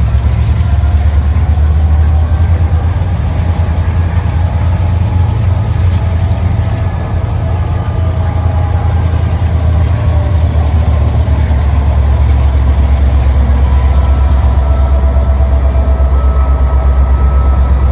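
Freight train's diesel locomotives running close by with a steady deep rumble. A thin high whine slowly rises and then falls.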